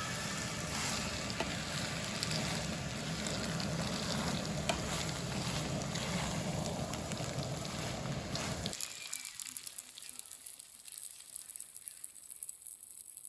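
Food sizzling as it fries in a pan, with scattered sharp pops. It cuts off abruptly about nine seconds in, leaving only a faint background.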